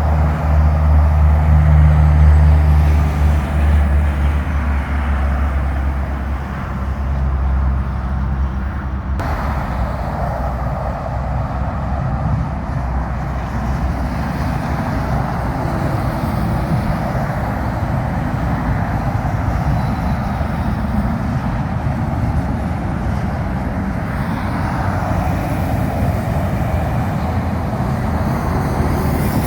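Heavy truck's diesel engine droning low, fading away over the first several seconds, followed by steady traffic noise from tyres on a wet road.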